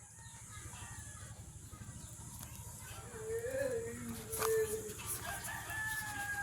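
A rooster crowing faintly, one call about three seconds in and another near the end.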